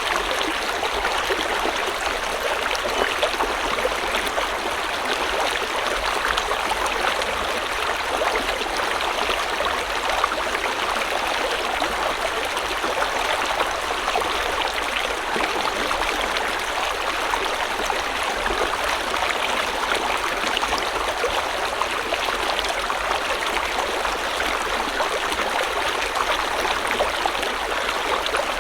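A river or stream flowing, a steady rushing and babbling of water.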